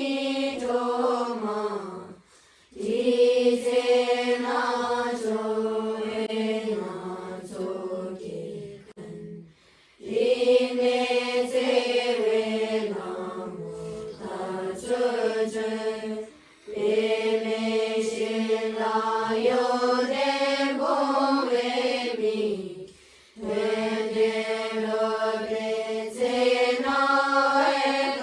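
Buddhist mantra chanting: a voice held on long, slowly moving notes in phrases of six to seven seconds, each broken by a short pause for breath.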